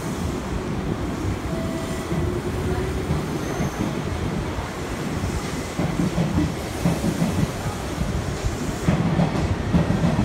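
Hanshin Railway electric train running along the station platform: a steady low rumble with a faint wheel squeal, and wheels clacking over rail joints more strongly in the second half.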